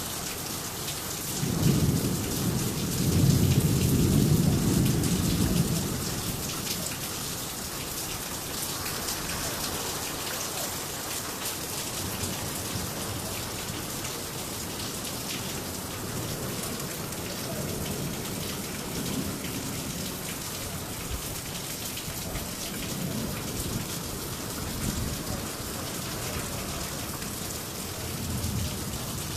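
Heavy rain falling steadily. A roll of thunder rumbles from about two seconds in for several seconds, and fainter rumbles of thunder come later.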